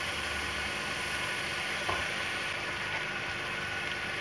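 Grated carrots frying in ghee in a pot, sizzling steadily now that the sugar's water has cooked off, with one light knock about two seconds in.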